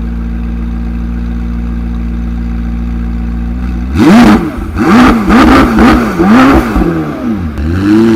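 McLaren 765LT's twin-turbo V8 idling steadily, then revved in a quick series of sharp throttle blips about twice a second, ending in one longer, held rev.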